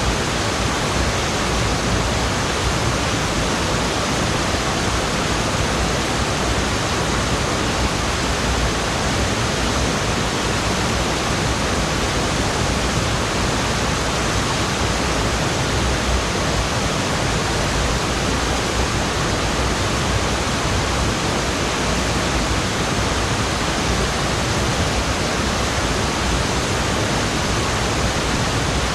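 Waterfall's falling water rushing steadily, an even unbroken roar.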